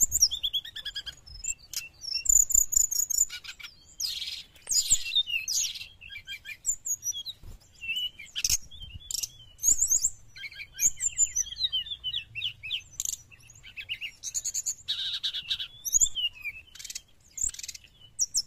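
Brown-chested jungle flycatcher singing a rapid, varied run of high chirps, trills and whistled notes, phrase after phrase with short gaps between them.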